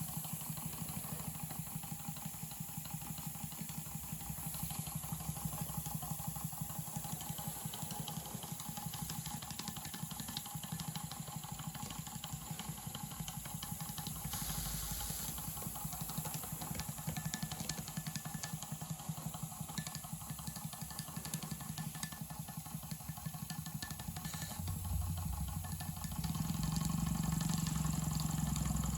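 Single-cylinder double-acting model steam engine running fast, its exhaust beats coming as a rapid, even patter over a steady low hum. Near the end it gets louder and a deeper hum comes in.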